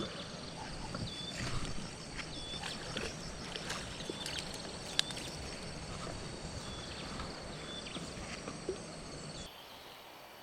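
Riverbank ambience: a steady high insect drone with short chirps repeating about once a second over a low rushing haze, and a few sharp clicks. It drops noticeably quieter near the end.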